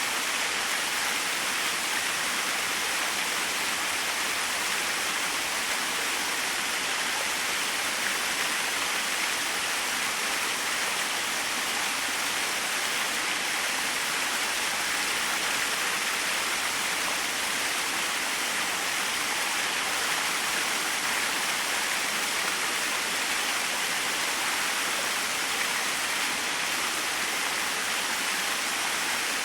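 Small waterfall, water splashing steadily with an even rushing hiss.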